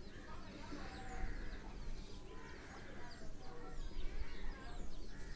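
Birds chirping in the background: many short quick chirps throughout, with a few lower clucking calls in among them.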